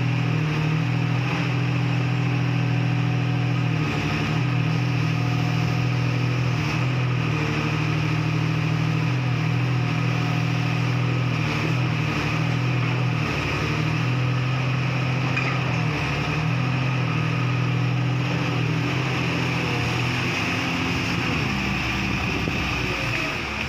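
Komatsu PC200-5 hydraulic excavator's diesel engine running steadily at working speed, its pitch shifting slightly now and then.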